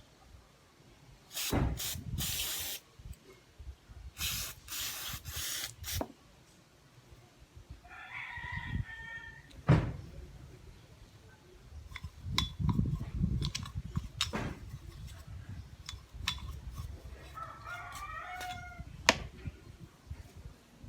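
Aerosol electric contact cleaner sprayed in several short hissing bursts onto starter motor parts to clear carbon deposits, followed by clicks and knocks of the parts being handled. A chicken calls twice in the background.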